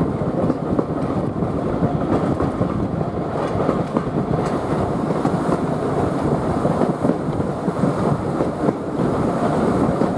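Heritage railway carriage running along the line, heard from on board: a steady rumble and clatter of the wheels on the rails.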